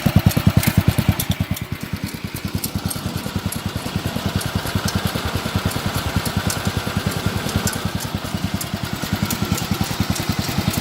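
Ford T-1000 garden tractor's engine running steadily with a fast, even beat, dipping a little in level about two seconds in.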